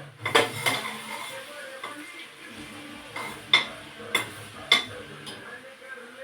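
Metal utensil clinking and scraping against cookware, with about five sharp clinks: one near the start, a quick pair just after, and three more in the second half.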